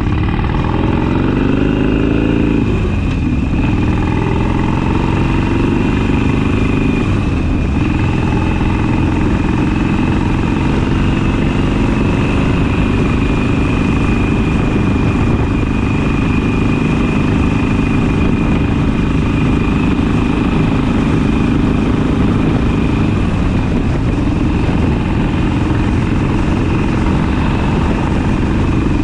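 Harley-Davidson Sportster's V-twin engine under way. It climbs in pitch through the gears, dropping at shifts about three and seven seconds in, then runs at a steady cruise.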